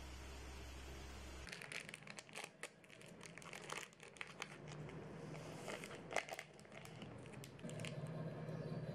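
A low hum cuts off about a second and a half in. Crinkling, crackling sounds with sharp clicks follow for several seconds, like a packet or wrapper being handled at a kitchen counter. A steady low rushing sound starts near the end.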